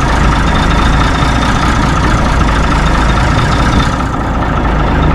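1964 Mack B-model truck engine idling steadily, building up air pressure after the low-air buzzer.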